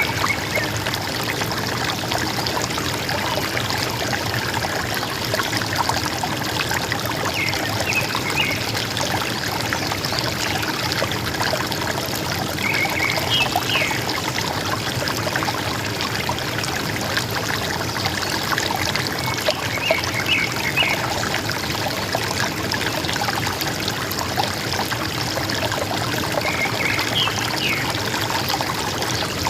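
River water running and gurgling steadily, with short chirping calls of forest birds breaking in briefly about every six or seven seconds.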